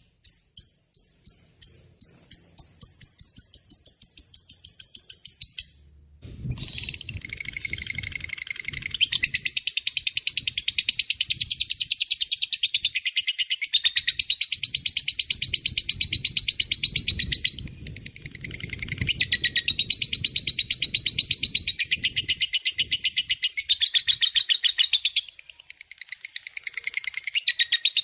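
Lovebird singing its long 'ngekek' chatter: long runs of rapid, high-pitched repeated notes, broken by a few short pauses.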